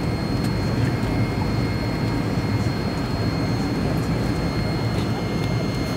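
Steady jet airliner cabin noise: a dense, even engine and airflow rumble with a faint steady high whine over it.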